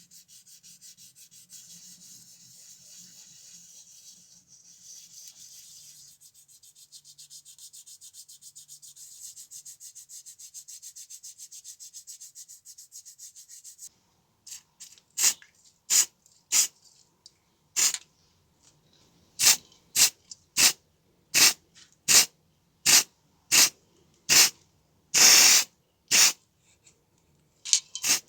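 Rapid back-and-forth sanding by hand on a small die-cast model car part, a fast, even scratchy rubbing. About halfway through, this gives way to a series of short, sharp hissing spray bursts, one of them held for about a second.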